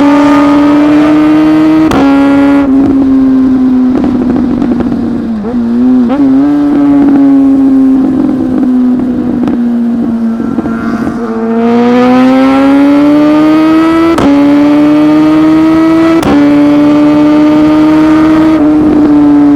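Inline-four superbike engine running hard at high revs, its pitch easing off slowly and then climbing again as it accelerates about halfway through, with a few short sharp breaks in the note along the way.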